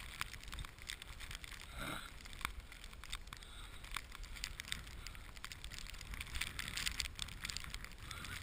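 Footsteps crunching through deep snow: a dense run of irregular crackling crunches.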